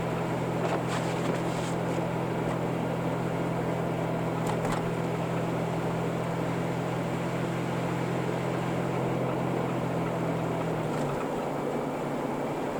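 Car running on the road, heard from inside the cabin: steady engine hum and road noise, with the low engine note dropping away about eleven seconds in.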